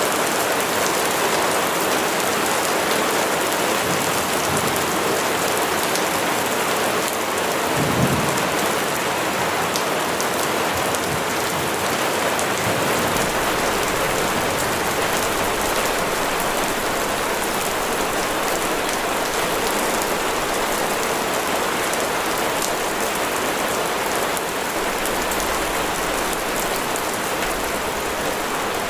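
Steady heavy rain falling on a surface as an even hiss, with a brief low thump about eight seconds in.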